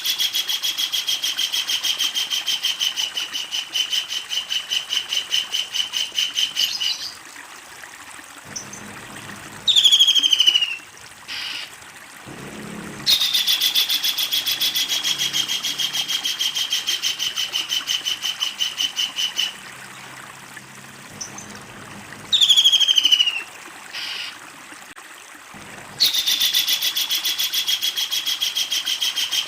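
A kingfisher giving long, loud, rapid rattling trills, three long runs of fast repeated notes that drop in pitch at the start and then hold steady, with a short downward-sliding call between the runs, about 10 s and 22 s in.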